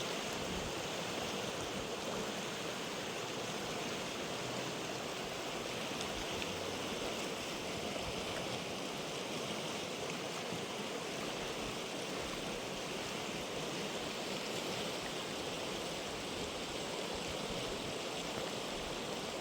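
Steady rushing of a river's flowing water, an even noise without breaks.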